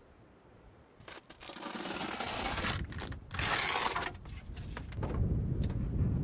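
Strong wind gusting: after a quiet second come two loud hissing rushes, then a low rumbling buffet of wind on the microphone that builds near the end.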